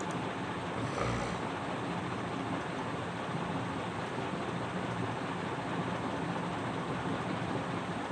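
Steady rushing background noise, with a brief louder swell about a second in.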